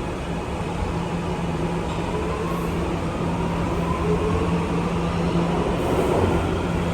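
R211A subway car accelerating out of a station: the propulsion whine rises in pitch over a steady hum and rail rumble, and the sound grows gradually louder.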